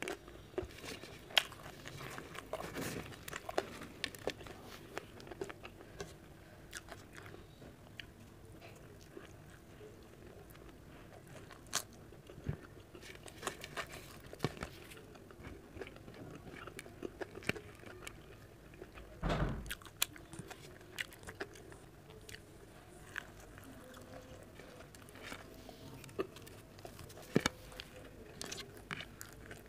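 Close-miked chewing and mouth sounds of a person eating roti with okra (bhindi) sabzi, with many small scattered clicks and smacks and one louder bump about two-thirds of the way through.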